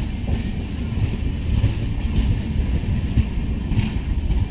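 Passenger coaches of a departing express train rolling past: a steady low rumble with occasional clicks of wheels over rail joints.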